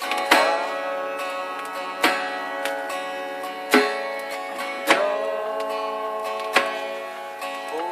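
Acoustic guitar playing held chords, with a sharp strum or strike about every second and a half, in an instrumental passage without singing.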